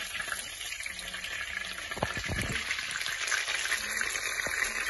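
Breaded chicken rolls shallow-frying in hot oil in a pan: a steady crackling sizzle. A couple of low knocks come about two seconds in.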